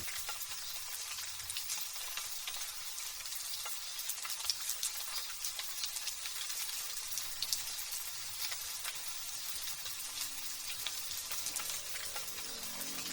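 Light drizzle pattering steadily: a dense, even hiss of fine raindrops with many small ticks of drops striking a surface.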